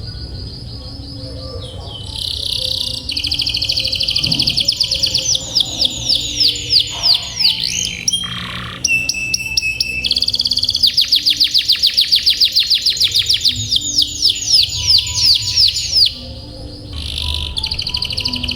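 Domestic canary singing, a continuous run of fast rolling trills: long phrases of rapidly repeated notes that change speed and pitch every few seconds, with a short lull about 16 seconds in.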